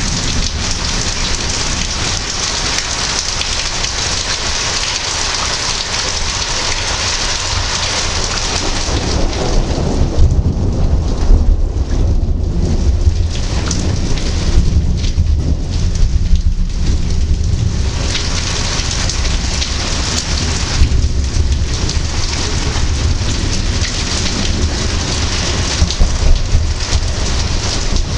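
Heavy rain falling steadily, with deep rolling thunder that builds about a third of the way in, rumbles for several seconds, and rolls again near the end.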